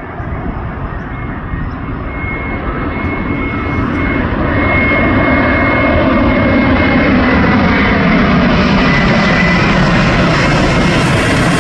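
Airbus A350-900's Rolls-Royce Trent XWB jet engines on final approach for landing. The sound grows louder over the first few seconds as the airliner nears, then holds loud, with a thin steady whine over the rumble.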